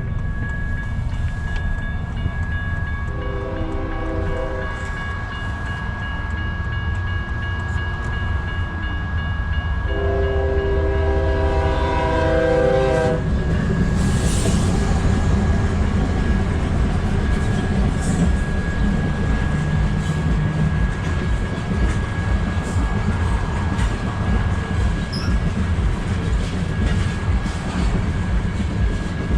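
BNSF freight locomotive horn sounding: the tail of one blast at the start, a short blast about three seconds in and a longer blast about ten seconds in. Then the lead locomotives and freight cars pass close by, with a steady heavy rumble and wheel clatter over the rail joints.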